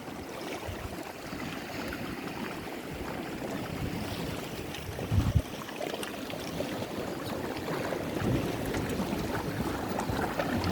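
Steady outdoor rush of wind and sea water on a coastal path, with one short low thump about five seconds in.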